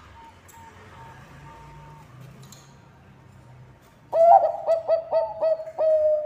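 Zebra dove (Bangkok perkutut) cooing: a faint quick run of short notes at first, then about four seconds in a loud, rapid run of around eight staccato coos.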